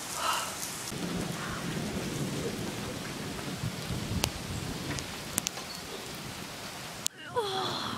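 Steady heavy rain hiss, recorded on an iPod held out in the downpour, with a low rumble of thunder underneath. A few sharp ticks from raindrops striking the device come in the second half.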